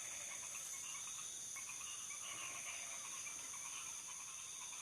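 Night chorus of crickets and other insects: a steady, unbroken high-pitched trill.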